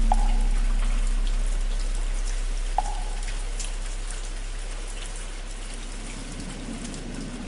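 Steady rain falling, with the deep hum of a large temple bell struck just before, slowly fading away. Two short hollow knocks of a wooden fish (muyu) come, one at the start and one about three seconds in.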